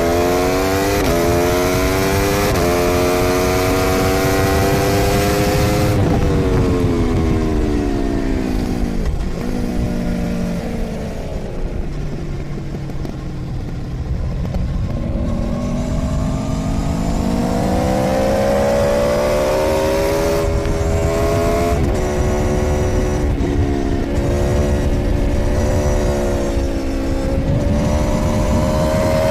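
Onboard sound of a 2013 Aprilia Tuono V4's V4 engine on a race track, with wind rush. It pulls hard through upshifts, then drops in pitch through a long deceleration into a slow corner, then accelerates again through several quick upshifts.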